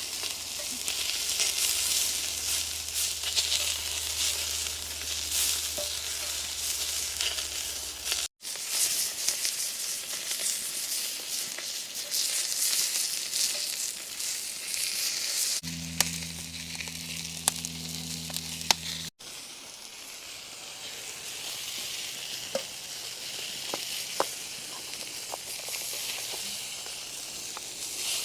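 Food frying in shortening on a cast iron griddle over a campfire, a steady sizzle. It drops out abruptly twice, about 8 and 19 seconds in, and is softer after the second break, with a few faint clicks.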